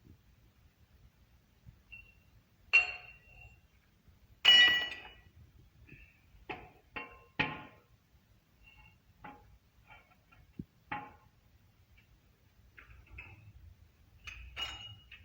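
Metal tools and parts clinking and ringing against metal in sharp, separate strikes. The loudest comes about four and a half seconds in, with a cluster of lighter taps after it and a pair near the end.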